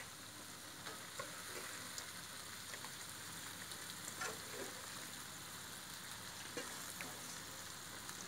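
Raw chicken pieces frying in oil and spice paste in a steel wok, a steady faint sizzle, with a few short clicks of a metal spatula against the wok as it is stirred.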